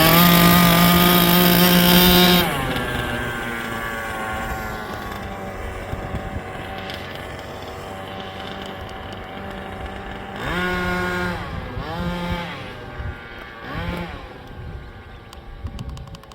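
Small engine of a radio-controlled truck running loud for the first two and a half seconds, then fading as the truck moves away, with short revs rising and falling in pitch about ten and a half, twelve and fourteen seconds in.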